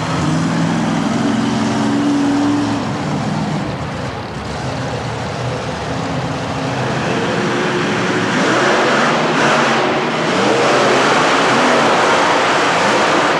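Monster truck engines revving hard at full throttle, with pitch swinging up and down and getting louder in the second half.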